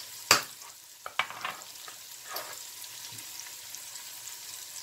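Sofrito of onion, peppers and garlic frying gently in oil over low heat, a soft steady sizzle. A few sharp clicks in the first half, the loudest about a third of a second in.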